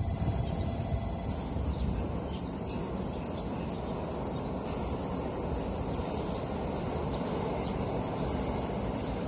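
JR Kyushu 811 series electric train rolling into the station with a steady low rumble, over a steady high-pitched insect buzz.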